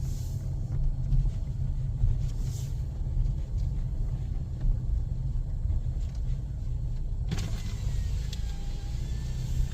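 Car running at low speed, heard from inside the cabin as a steady low rumble. About seven seconds in a steady hiss joins it.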